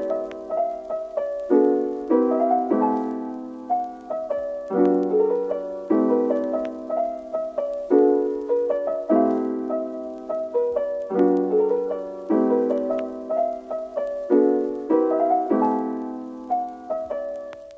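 Background piano music: gentle chords struck one after another, each ringing and dying away before the next.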